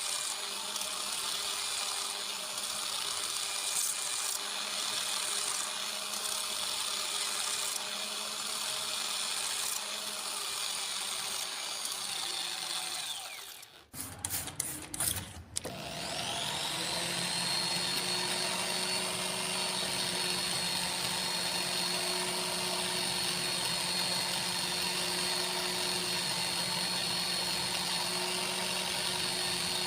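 Small electric power tool motor running steadily, winding down to a stop about halfway through, a few clicks, then starting again and spinning up to a steady run.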